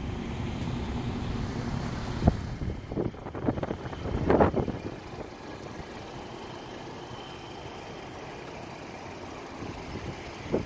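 Car engine idling with a steady low hum, a single sharp click about two seconds in and a few louder gusty swells around four seconds, then quieter.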